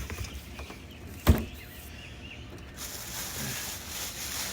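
Unpacking a boxed pressure washer: a single sharp knock about a second in, then rustling of packaging material.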